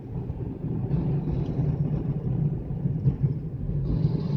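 Steady low road and engine rumble of a Hyundai Xcent car on the move.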